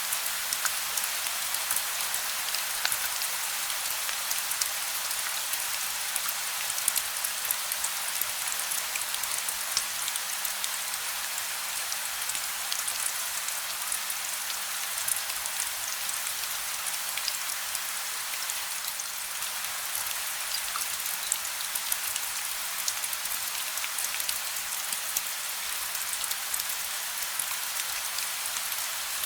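Steady gentle rain with no thunder, a constant hiss of drops pattering on a surface with many small separate drop ticks, and a faint steady low hum beneath.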